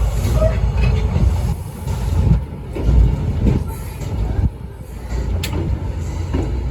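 Passenger coach of a steam-hauled train rolling along the track, a steady low rumble heard from inside the car, with a sharp click about five and a half seconds in.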